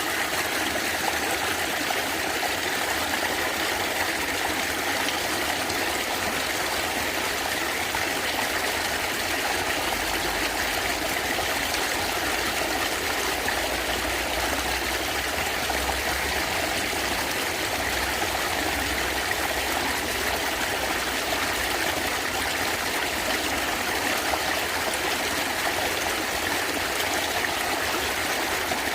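Natural stream water running and gurgling steadily, with a low rumble underneath from about ten to twenty-two seconds in.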